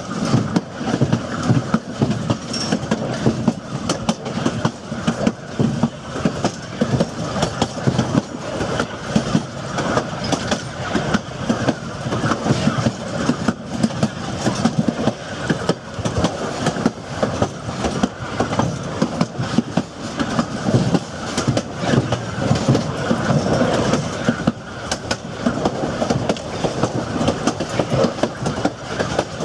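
Narrow-gauge railroad passenger cars rolling along the track at speed: a steady rumble with rapid, irregular clicking and clacking of wheels over the rails.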